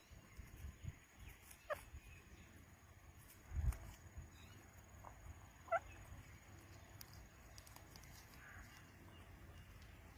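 A pet parrot giving two faint, brief chirps, with a low thump between them and a faint steady high tone underneath.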